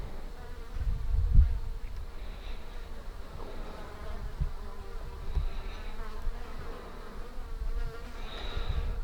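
Flies buzzing close by, their drone wavering in pitch and loudness, over uneven low rumbles.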